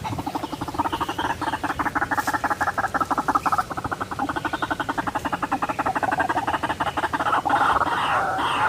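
White-breasted waterhen calling: a long, rapid run of evenly pulsed notes, changing to wavering, warbling calls near the end.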